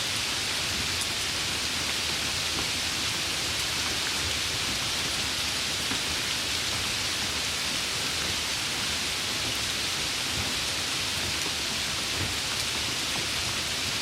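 Steady, even rain falling, a continuous hiss of drops with no change in strength.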